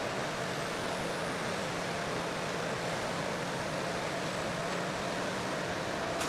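A heavy vehicle's engine running at an even pace, with a steady rushing noise and a faint constant hum.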